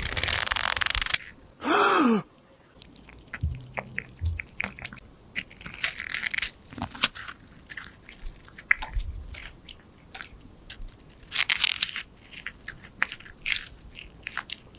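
Cat crunching and chewing food in a run of irregular crisp bites. A loud hissing burst fills the first second, and a short falling tone comes about two seconds in.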